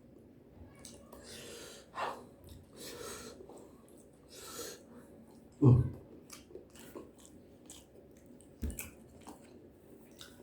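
Close-up chewing of a person eating: many small wet clicks and soft mouth noises, with a louder mouth sound about two seconds in and another just before six seconds.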